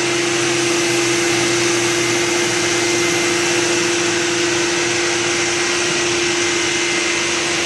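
Vacuum cleaner running steadily, with a constant motor whine over the rush of air, as a car's interior is vacuumed.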